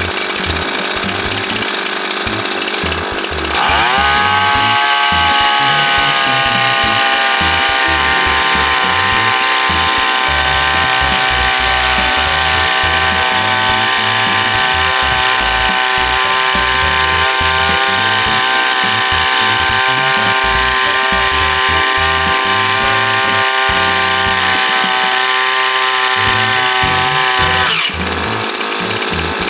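Kyoritsu TK25P power sprayer's small two-stroke engine idling with a rough rattle, then revved up about three seconds in to a steady high-speed drone. It holds there and drops back to idle a little before the end.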